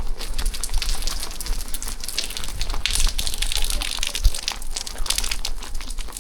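Rain pattering close to the microphone, a dense crackling patter with a low rumble underneath.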